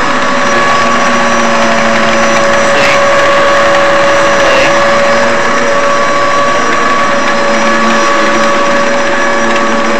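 Hoover Z700 upright vacuum cleaner running steadily while vacuuming carpet, its motor giving a constant whine over the rush of air.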